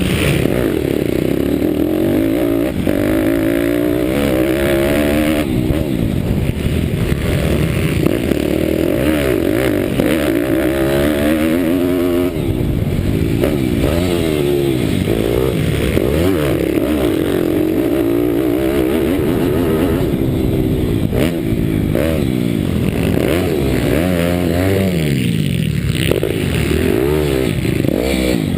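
Pitbike with a 190 cc Daytona Anima single-cylinder four-stroke engine, racing and revving up and down repeatedly through the gears, with other bikes' engines rising and falling around it.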